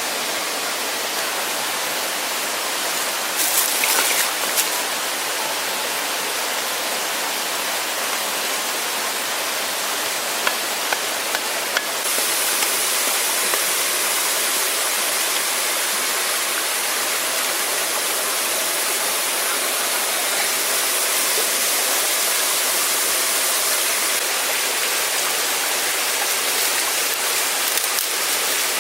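Steady rushing of a waterfall, growing slightly louder and brighter about twelve seconds in. A few sharp knocks sound over it, once around four seconds in and again around eleven seconds.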